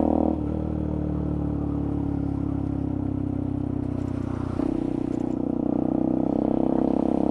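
Benelli TNT 125's single-cylinder engine running while the bike is ridden. The engine note drops off shortly after the start and slowly sinks in pitch, then picks up again about four and a half seconds in.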